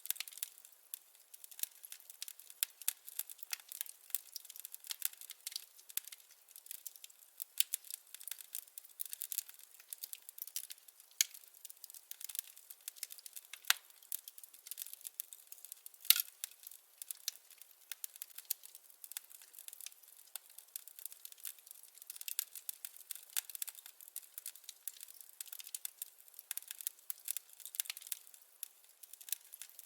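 Firewood burning in a fireplace, crackling: a steady stream of small, irregular pops and snaps, with one louder pop about sixteen seconds in.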